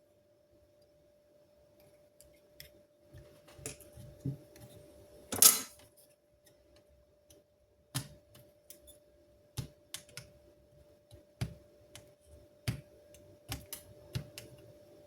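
Irregular small clicks and knocks of hard objects being handled, with one louder scraping burst about five seconds in, over a faint steady hum.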